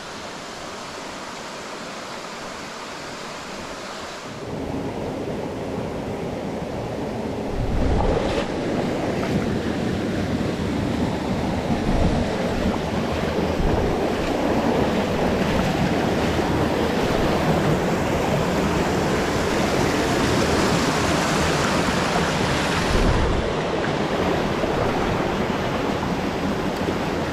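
Rushing water of a mountain stream, a steady hiss that grows louder about four seconds in and again about eight seconds in, with a couple of low wind buffets on the microphone.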